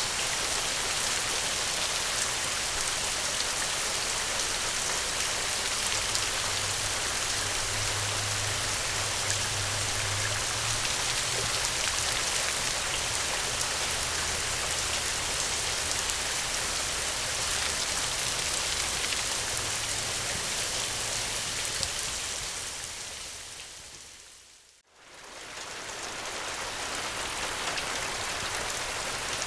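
Steady rain falling, an even hiss of many drops. About three-quarters of the way through it fades quickly to silence and then fades back in.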